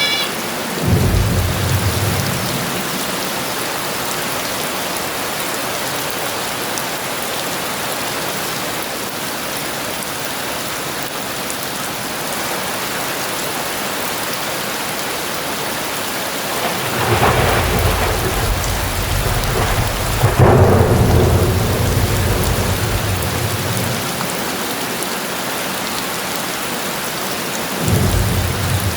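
Heavy rain falling steadily, with rolls of thunder: a short rumble about a second in, a long rumble in the middle that swells twice, and another starting near the end.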